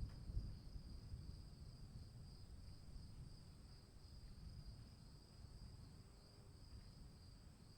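Crickets chirping in a continuous high, softly pulsing trill, with a fainter, even higher insect tone above it. A faint, uneven low rumble runs underneath.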